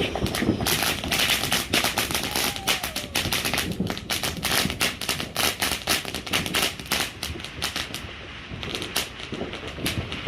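A string of firecrackers going off in a fast, crackling run of pops for about seven seconds, thinning to a few scattered bangs near the end.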